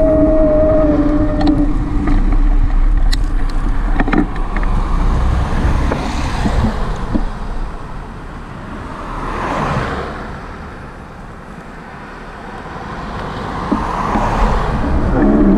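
Wind rumbling on the microphone of a moving bicycle, with road traffic; a passing vehicle swells and fades about two-thirds of the way in, and another comes up near the end.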